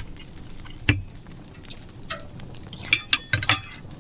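Scattered light clinks and knocks of eating utensils against a dish or tin: one about a second in, then a quick cluster around three seconds in.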